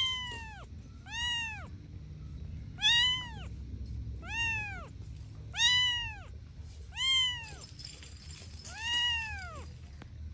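A cat meowing seven times, about every second and a half, each meow high-pitched and rising then falling in pitch.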